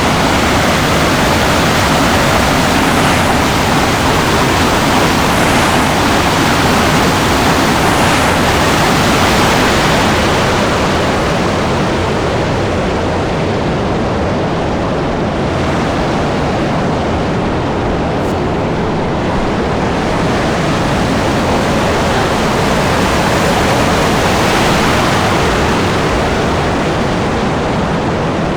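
Waterfall water rushing loudly and steadily, a dense even wash of noise.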